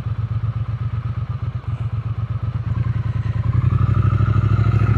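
Triumph Speed Twin 900's parallel-twin engine running at low revs through a slow U-turn, its exhaust pulses getting louder about three and a half seconds in as the throttle opens.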